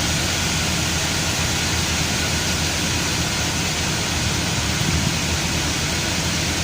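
Chevrolet Camaro engine idling steadily under a constant hiss-like running noise; the scan tool records no misfires at idle.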